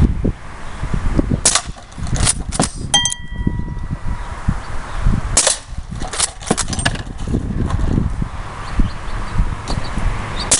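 Umarex Legends Cowboy lever-action CO2 BB rifle being fired and cycled: a string of sharp pops and lever clacks at irregular intervals, with a short metallic ring about three seconds in.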